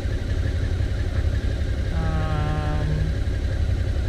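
Suzuki V-Strom's V-twin engine running steadily with a low rumble. A brief held hum sounds over it about two seconds in and lasts about a second.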